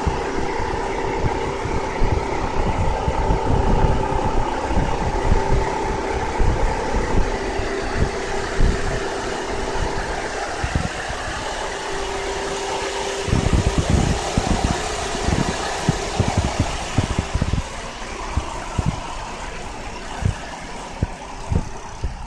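Engine of an older car idling steadily, with a steady hum over it.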